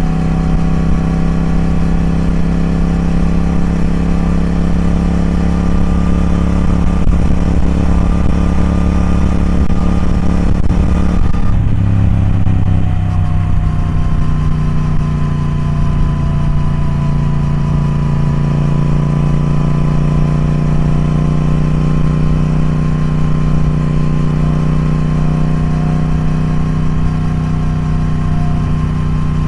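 Triumph Speed Twin's parallel-twin engine running steadily at an even pitch, with a brief change in its note about a third of the way through.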